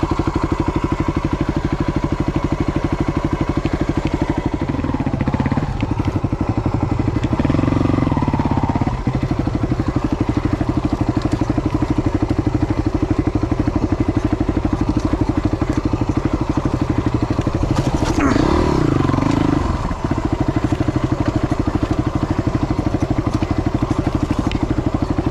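Yamaha WR250's single-cylinder four-stroke engine idling with an even, rapid pulse, its note briefly rising and falling twice, about a quarter of the way in and again near three-quarters through.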